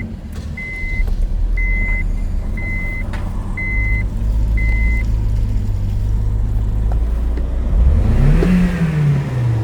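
Honda R18A2 1.8-litre i-VTEC four-cylinder engine idling steadily in a Civic under test, with a high beep repeating about once a second for the first five seconds. Near the end the throttle is blipped once and the engine revs up and settles back down.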